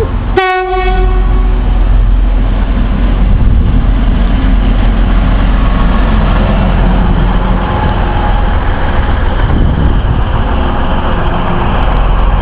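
Class 185 diesel multiple unit running past along the platform: a steady, loud rumble of its diesel engines mixed with wheel-on-rail noise. About half a second in there is a sharp click followed by a brief pitched tone that fades within a second.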